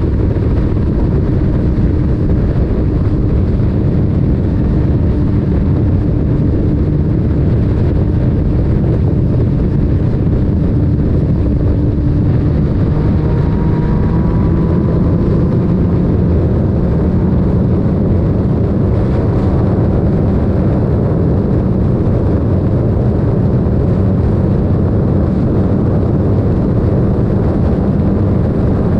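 Yamaha MT-09's three-cylinder engine running through an aftermarket Akrapovic titanium exhaust while riding at a steady pace, a loud, continuous exhaust drone with wind rushing over the helmet-mounted microphone.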